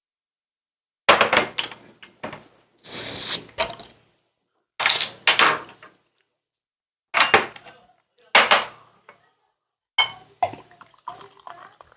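Eating and tableware sounds close to the microphone: a string of short clatters and rustles with pauses between, and one longer noisy burst about three seconds in.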